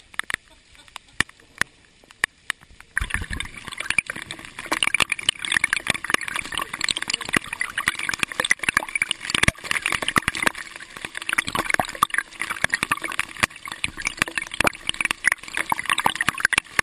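Rain, at first a few scattered drops tapping, then from about three seconds in a sudden, heavy, dense patter of a downpour.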